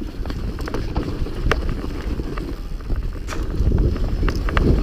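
Mountain bike descending a rough trail at speed: wind rumbling on the microphone, with scattered sharp clicks and rattles from the bike and the stones under its tyres.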